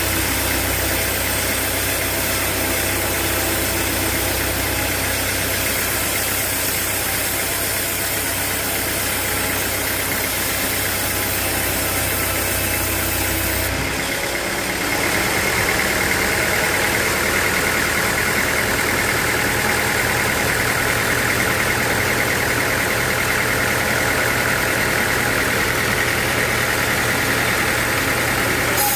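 Sawmill machinery running steadily with an engine-like hum. About halfway through, the sound changes abruptly: the low hum drops away and a higher, steady whine takes over.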